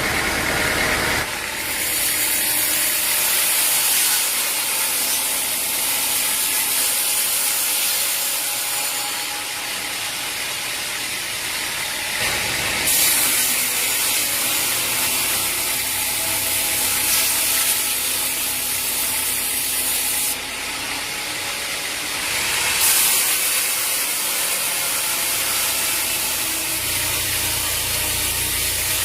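Sawmill machinery cutting wood: a loud, steady hiss of the blade through timber, changing abruptly several times as one shot cuts to another.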